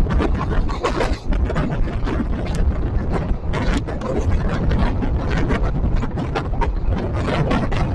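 Passenger train coach running along the track, heard from aboard: a continuous low rumble with dense, irregular rattling and clattering from the coach and its wheels on the rails.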